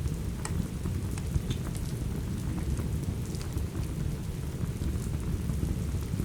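Steady rain with a deep, continuous low rumble, mixed with the scattered sharp crackles and pops of a wood fire in a fireplace.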